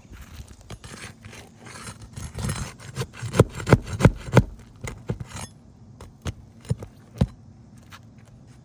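Scraping and prying at asphalt roof shingles to break their seal and work out the nails, with a run of sharp knocks about three to four and a half seconds in and a few more later.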